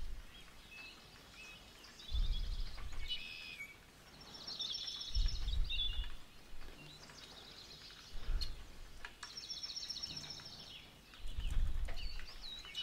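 A small bird singing repeated short trilled phrases, with four brief low rumbles in between.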